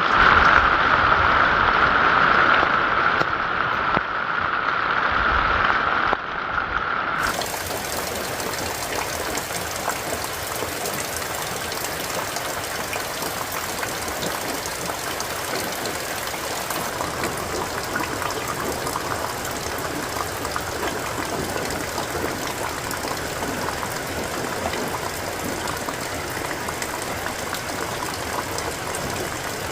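A steady high-pitched hum over noise for the first seven seconds or so, then an abrupt change to a steady, even rush of water that runs on unchanged.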